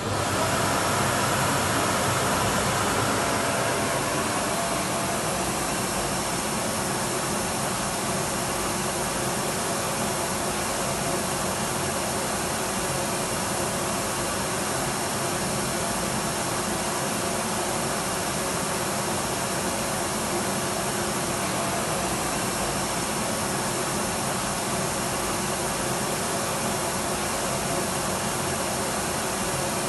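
Electric vacuum cleaner running steadily at full speed: an even rush of air with a faint motor whine. The motor, just spun up, settles in the first few seconds.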